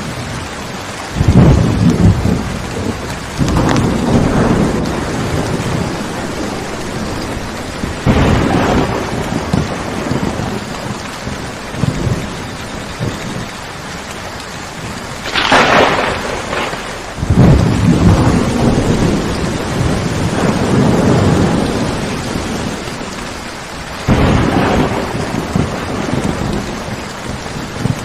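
Steady heavy rainfall with repeated rolls of thunder; loud thunder rumbles break in about a second in, around 4 and 8 seconds, with a sharper crack at about 15 seconds followed by a long rumble, and another roll near the end.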